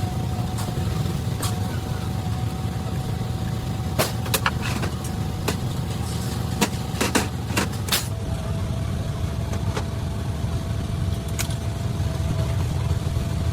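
A steady low motor rumble with a faint steady tone over it, and a cluster of sharp metallic clicks and knocks in the middle.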